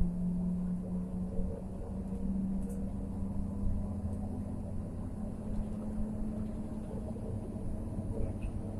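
A car driving along: a steady low rumble of engine and road noise with a steady low hum.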